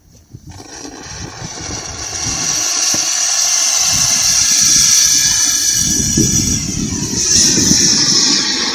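Autumn Forest firework fountain hissing as it sprays sparks. It catches about half a second in, builds over the next two seconds, then holds steady.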